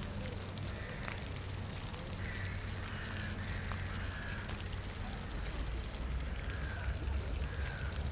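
City park ambience: a steady low rumble of distant traffic, with short repeated bird calls about once a second and faint distant voices.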